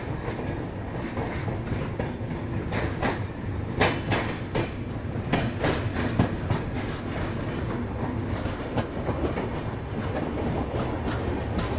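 Express passenger train running on the track: a steady rumble with irregular clacks as the wheels pass over rail joints.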